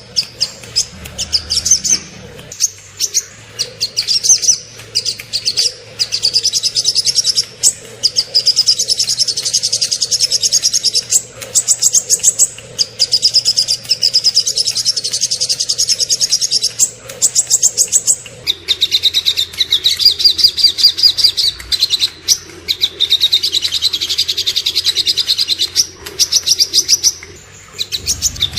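Small songbirds singing loud, rapid high-pitched trills: long runs of fast repeated notes with brief breaks. About two-thirds of the way through, the song shifts to a lower, more even trill.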